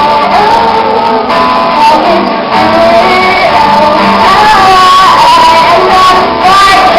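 Live music: a singer holding long, gliding notes over guitar accompaniment, in a loud recording of poor sound quality.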